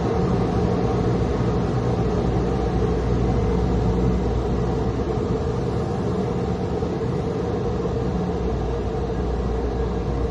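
Steady rumble and rushing noise heard from inside a car, with a constant hum, unchanging throughout.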